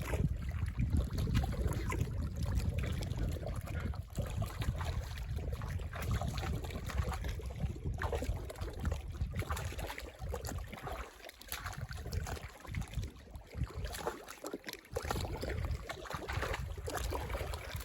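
Shallow water sloshing and splashing at the shore, with a steady low rumble from wind on the microphone.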